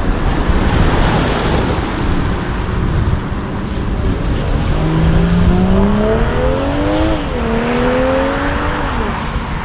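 A modified car's loud exhaust as it accelerates. The engine note climbs, drops at a gear change about seven seconds in, climbs again, and falls off near the end.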